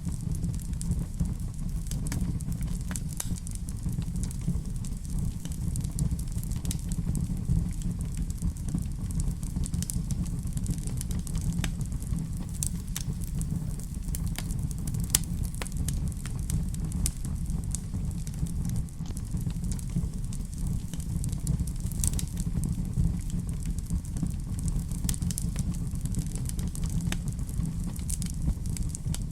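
Wood fire burning in a fireplace: a steady low rumble of flames with frequent scattered crackles and pops.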